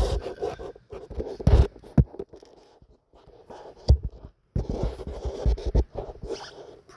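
Irregular scraping and rustling with several sharp knocks and thumps, like handling noise, sounding close to the microphone.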